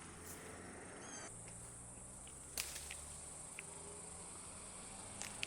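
Crickets chirring steadily in a high, even drone, with a few faint clicks and a brief chirp over it.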